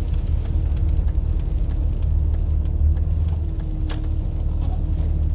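Car cabin noise while driving: a steady low rumble of engine and tyres with a faint hum, and light clicks throughout.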